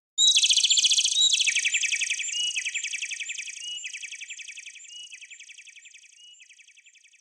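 Bird-like chirping trill repeated about once a second, each call a short rising chirp running into a buzzy trill. It starts suddenly and fades away steadily, sinking slightly in pitch.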